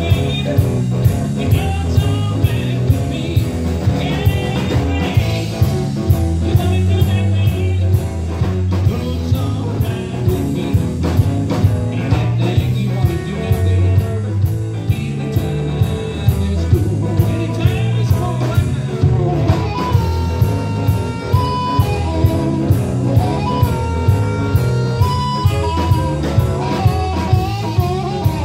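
Live blues-rock band playing with guitar and drum kit over a steady beat; from about two-thirds of the way in, a lead line holds long single notes.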